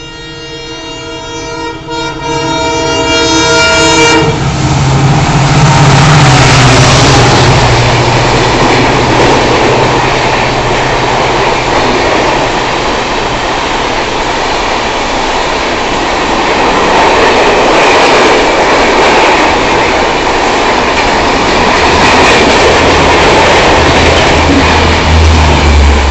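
Indian Railways WDP4D diesel locomotive sounding its horn in one long continuous blast, growing louder as the passenger train approaches. About four seconds in the horn stops and the locomotive rushes past with the drone of its two-stroke diesel, followed by the steady rush of the coaches going by at speed.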